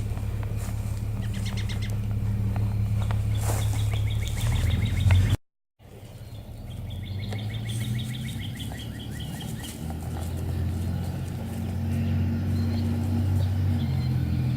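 A bird calling in quick runs of chirps over a steady low rumble. The sound cuts out to silence for a moment about five seconds in, then the rumble and chirping return.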